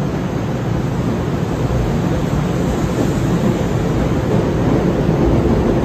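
Electric passenger train rolling alongside a station platform: a steady rumble of wheels and running gear that grows a little louder as the cars pass close by.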